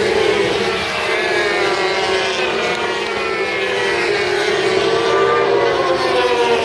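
Several superbike engines running at high revs on track. Their overlapping pitches rise and fall slowly.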